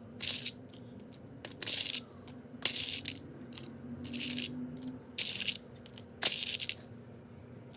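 Small, hard fossilized shark teeth rattling and clinking against each other as they are handled, in about six short bursts with a few sharp clicks between.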